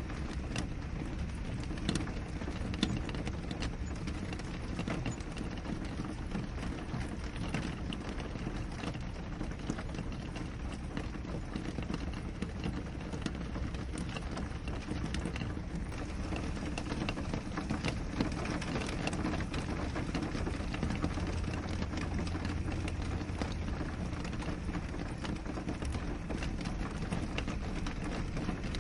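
Steady rain with many small drop ticks striking a window pane over a low, even wash of rainfall.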